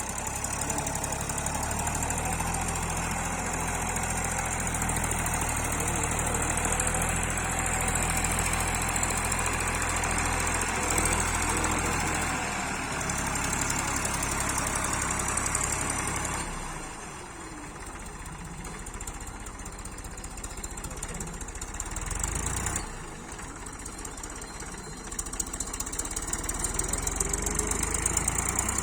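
Diesel tractor engine running with a knocking note. A little past halfway it eases off to a quieter run, surges briefly once, then picks up again near the end.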